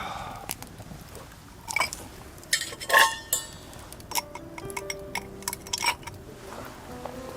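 Scattered clinks and taps of glass and tableware, the loudest a short ringing clink about three seconds in. Background music with held notes comes in about halfway through.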